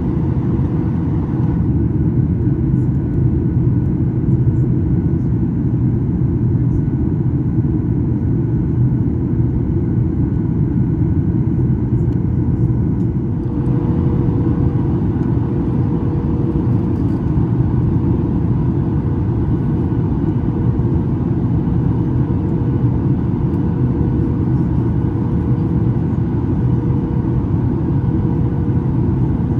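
Steady cabin noise of a Boeing 737 MAX 8 in flight: a low rumble from its CFM LEAP-1B engines and the airflow, with a faint steady hum. The higher part of the noise drops away about two seconds in and comes back about halfway through.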